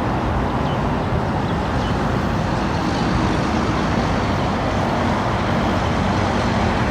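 A loud, steady, even noise with no distinct events.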